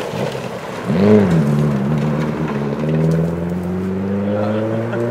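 Rally car engine revving hard on a dirt stage. Its pitch shoots up and drops back about a second in, then climbs steadily as the car accelerates away.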